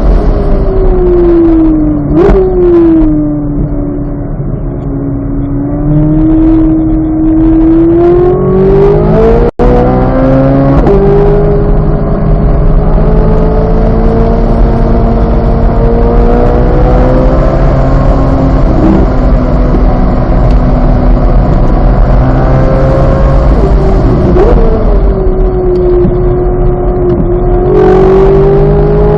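2023 Chevrolet Corvette Z06's flat-plane-crank V8 running hard on track. Its note falls with a quick throttle blip about two seconds in, then climbs to a brief break and a gear change at about nine and a half seconds. It runs on at high revs, dips, and blips again near the end, over steady road and tyre rumble.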